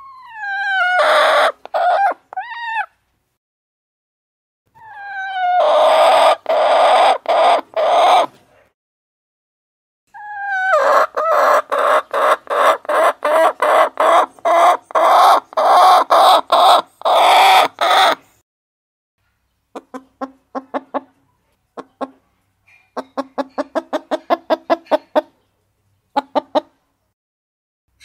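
Hens clucking in repeated loud bouts: each bout opens with a falling call and runs into a quick string of clucks, about two to three a second, the longest lasting some eight seconds. After that, softer short runs of clucks.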